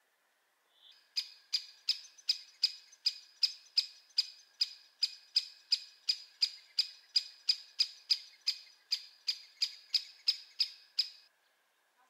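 A bird repeating one short, sharp call note, about three times a second, for some ten seconds, starting about a second in.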